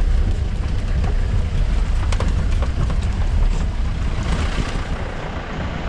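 A vehicle running on the move: a steady low rumble, with wind buffeting the microphone and a few light knocks.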